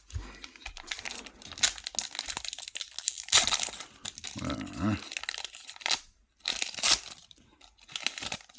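Trading-card pack wrapper crinkling and tearing as a pack is opened and handled, in irregular clusters of crackles with short pauses.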